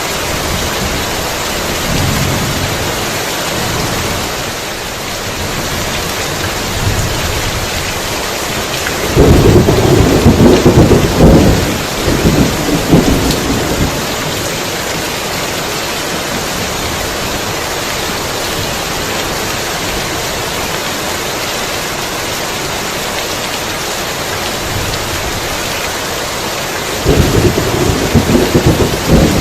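Heavy rain falling steadily, with two loud rolls of thunder rumbling through it, one about nine seconds in lasting a few seconds and another starting near the end.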